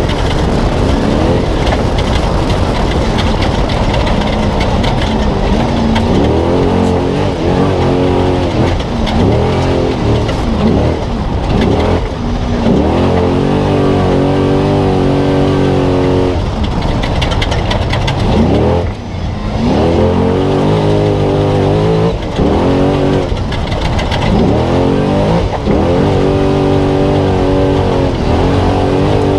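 Spec trophy truck's V8 engine at race pace, heard onboard. The revs climb and drop over and over as the throttle is lifted and reapplied, with one sharp lift about two-thirds of the way through, over a constant rushing noise.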